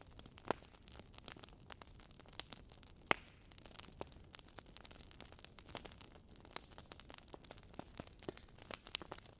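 Wood fire in a fireplace crackling, with irregular sharp pops; the loudest pop comes about three seconds in.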